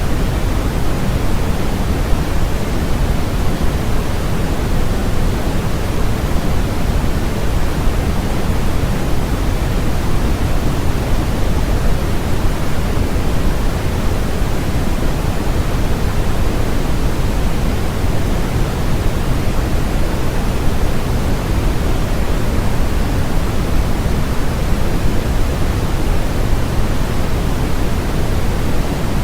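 Steady, unbroken synthetic noise sold as white noise, heavier in the low end than true white noise, like a pink-noise hiss and rumble. It does not change at all.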